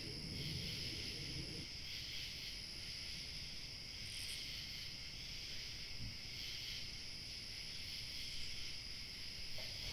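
Crickets chirping in a steady evening chorus, with a second, higher-pitched insect trill above them. A low rumble of light wind underneath stops about a second and a half in.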